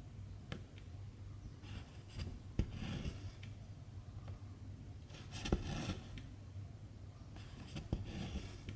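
Cross-stitch needle and silk thread drawn through fabric: three rasping pulls of thread, each with a small click of the needle, and a few faint ticks between them.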